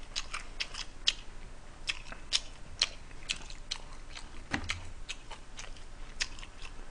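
Mouth sounds of a man chewing food close to the microphone: irregular short smacks and clicks, a few each second.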